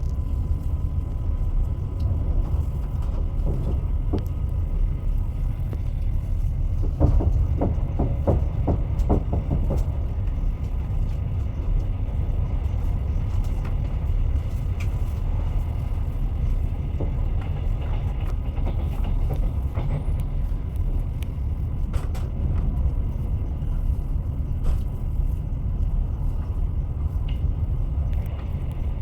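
Train wheels rolling on rails: a steady low rumble, with a quick run of clacks about seven seconds in as the wheels pass over rail joints, and a few single knocks later.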